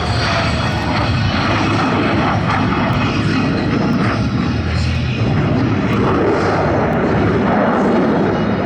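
Jet noise from US Navy Blue Angels F/A-18 Hornets in flight: a loud, steady roar from their twin turbofan engines, with a falling whine that fades out in the first second as a jet passes.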